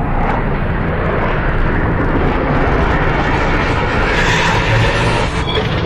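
Jet aircraft engine noise, loud and steady, growing brighter and harsher about four seconds in.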